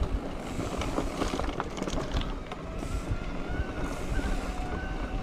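Wind buffeting the microphone over the rattle and rumble of a bike rolling along a rough dirt trail, with many small clicks and knocks from the bumps.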